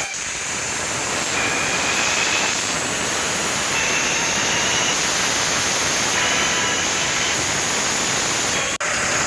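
Loud, steady rushing noise with a faint high whine that comes and goes; it cuts out for an instant near the end.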